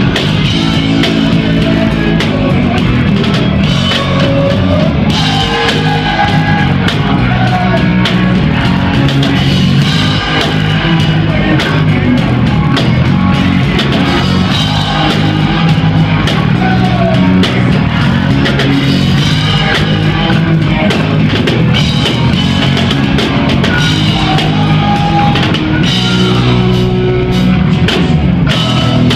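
Hard rock band playing loud and steady: electric guitars over a drum kit beat.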